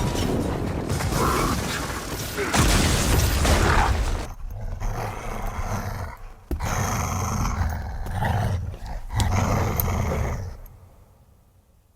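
Dogs growling in rough play-fighting, in bursts with short breaks, dying away near the end.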